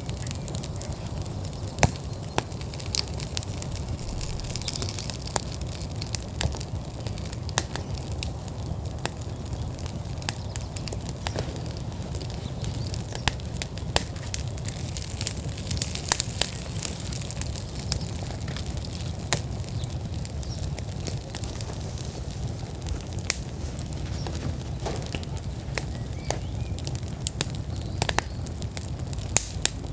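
Outdoor wood fire in a fire pit at full burn, crackling with irregular sharp pops and snaps over a steady low rumble.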